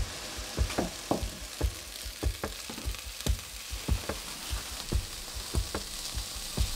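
Halved potatoes frying in fat and meat juices in an enameled cast-iron Dutch oven, sizzling steadily with frequent sharp pops as they are stirred and browned.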